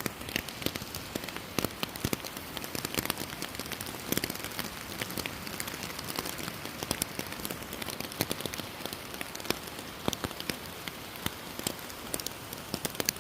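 Steady rain falling: a constant hiss with frequent sharp, irregular drop hits.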